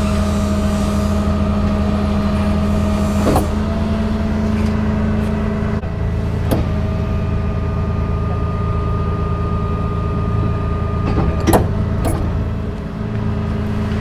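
Cummins diesel of a Ram 5500 bucket truck running with the PTO engaged, driving the hydraulic pump with a steady whine while the A-frame outriggers are worked by lever. The whine changes a few times, with sharp clicks and clunks about three, six and eleven seconds in.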